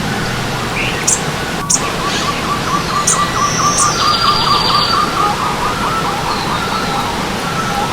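Stream water running steadily under birdsong: one bird repeats a quick note several times a second for about five seconds, while others add short high chirps and a buzzy trill. There is a single sharp click about two seconds in.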